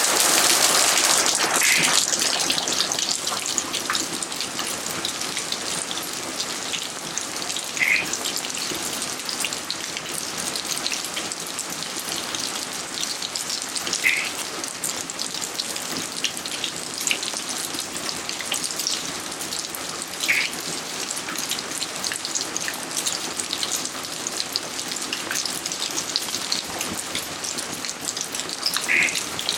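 Steady rain falling on garden surfaces, a dense, even patter, a little heavier for the first couple of seconds. A short, brighter drip-like sound stands out over it about every six seconds.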